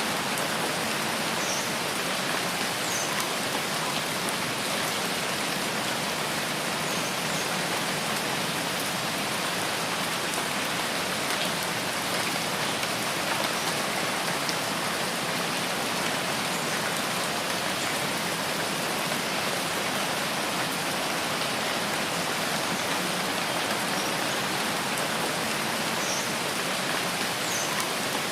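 Steady rain falling in a rain forest, an even hiss of drops, with a few faint, short high-pitched sounds about a second in, near three seconds and twice near the end.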